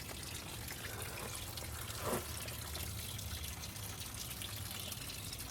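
Steady background noise, a faint hiss over a low hum, with one brief soft sound about two seconds in.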